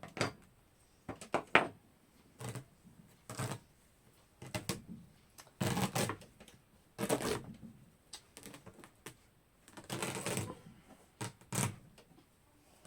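Irregular clicks and scrapes of a hand tool prying staples and nails out of a wooden chair frame, in short uneven bursts.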